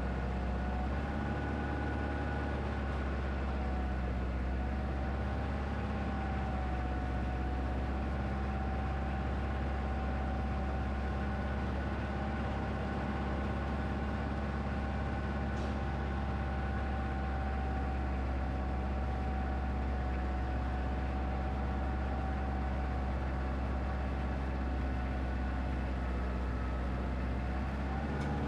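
Wood-Mizer LX25 portable band sawmill running steadily: its small engine hums under a steady, unbroken whine.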